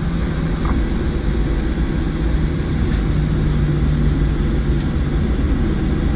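Cabin noise inside a Boeing 737-700 after landing: the steady rumble and hiss of its CFM56 turbofans at low power, with a constant low hum underneath.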